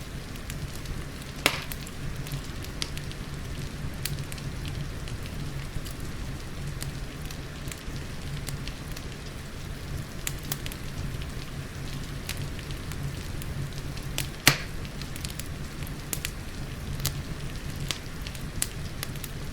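Wood fire crackling with frequent small snaps and two louder pops, about a second and a half in and near the end, over a steady hiss of rain and a low rumble.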